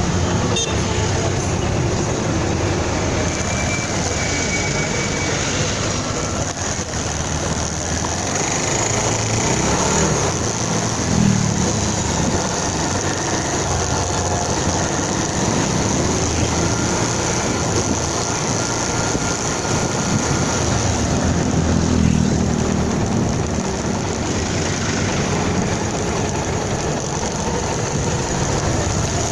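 Motorcycle being ridden: steady engine and road noise, with the engine note rising and falling now and then, amid traffic.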